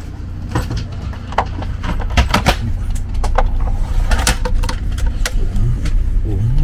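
Passenger train running, heard inside the carriage: a steady low rumble that grows louder, with a tone rising in pitch near the end. Scattered clicks and knocks come from the seat's armrest and recline control being handled.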